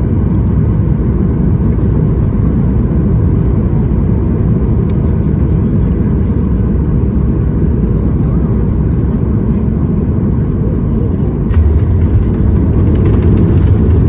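Steady cabin roar of a Boeing 737 MAX 8 airliner on its landing approach, with its CFM LEAP-1B engines and airflow heard from a window seat. About eleven seconds in, the roar jumps to a louder, heavier rumble with rattling.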